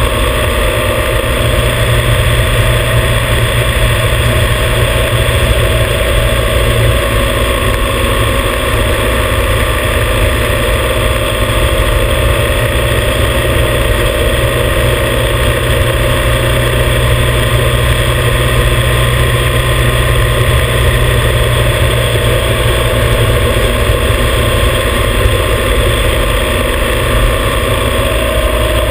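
Motorcycle engine running at a steady cruise, holding an even pitch throughout.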